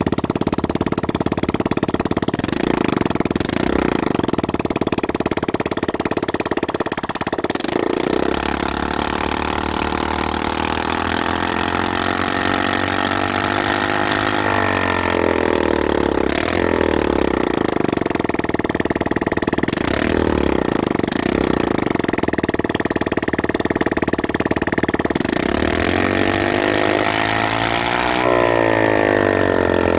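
Moped engine running with the muffler removed, open at the exhaust port, loud and unmuffled. It runs at a steady speed, then is revved up twice, each time climbing for a few seconds before dropping back.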